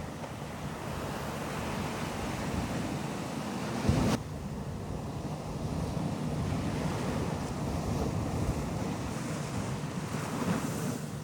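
Ocean surf washing onto a beach, swelling and easing, with wind buffeting the microphone. About four seconds in there is a brief, sharp thump, louder than the surf.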